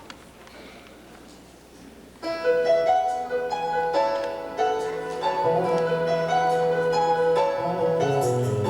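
Low room noise, then about two seconds in a piano starts playing the introduction of a song, note by note. Deeper bass notes join partway through.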